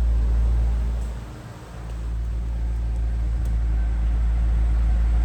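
Pontiac GTO's LS2 6.0-litre V8 running at idle, a steady low rumble that dips briefly about a second and a half in before settling back.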